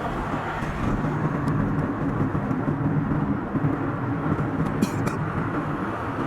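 A car driving on a road with steady engine and tyre noise. There are two brief clicks about five seconds in.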